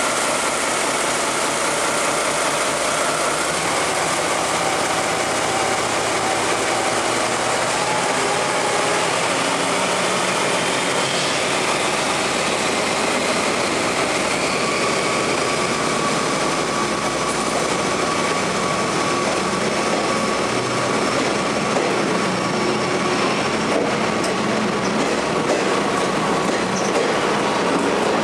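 Diesel locomotive hauling a line of passenger coaches slowly past, with steady engine and wheel-on-rail running noise as the cars roll by.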